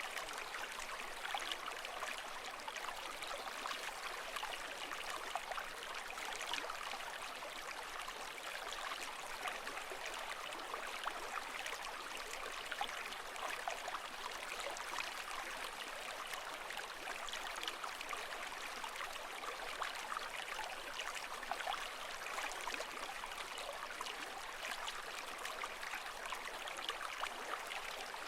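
Water flowing steadily with a constant fine trickling and bubbling, even in level with no swells or breaking waves.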